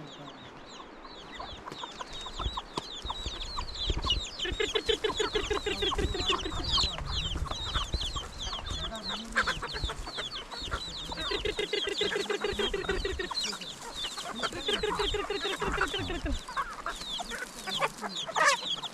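Chickens clucking and calling, with rapid runs of clucks several times and many short high chirps throughout. A low rumble sits underneath for most of the middle.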